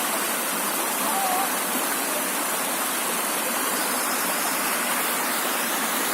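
Steady rushing of water from a waterfall and stream flowing over limestone rocks into pools.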